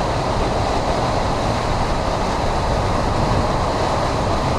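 Hurricane-force wind blowing steadily with rain, a loud, even rushing noise with gusts buffeting the microphone.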